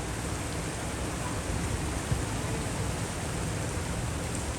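Steady rain falling, an even hiss, with one faint knock about two seconds in.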